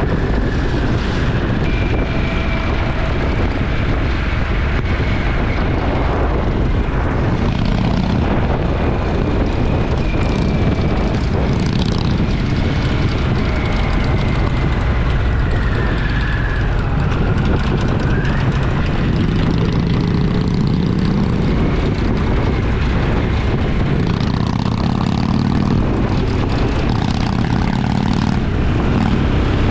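Motorcycle engine running steadily at road speed, with wind rushing over the helmet or bike-mounted camera microphone.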